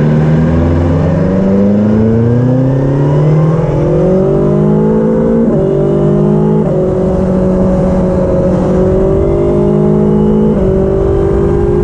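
2020 BMW S1000XR's inline-four engine running through a Cobra SPX BlackSeries exhaust. The revs climb steadily for about five seconds, then hold fairly steady with a few sudden small steps in pitch.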